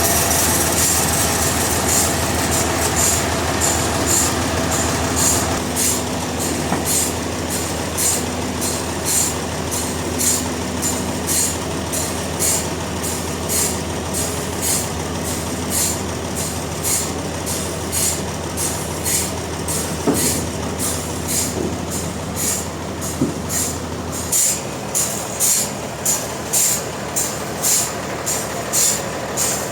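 Industrial sawmill machinery running: a steady mechanical hum with a regular high-pitched pulse about one and a half times a second. The low hum cuts off about 24 seconds in, and the pulses carry on.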